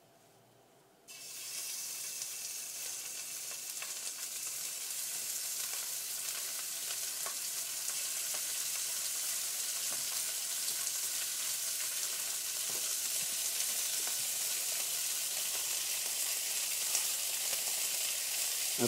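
Chicken tenders frying in a hot skillet on a gas stove: the sizzle starts suddenly about a second in as they go into the pan, then holds steady and slowly grows louder.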